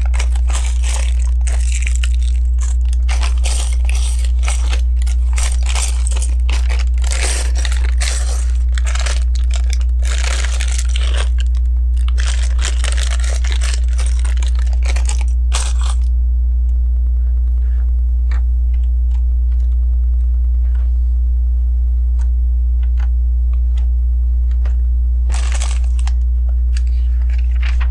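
Loose plastic LEGO pieces being rummaged and handled, a dense crunching rustle for about sixteen seconds, then only scattered small clicks with a short rustle near the end. A steady low hum runs underneath.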